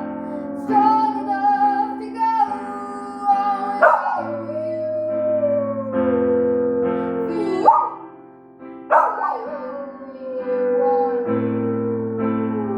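Piano chords with a dog howling along, its long drawn-out notes sliding slowly downward in pitch. Each howl begins with a short sharp yelp, twice.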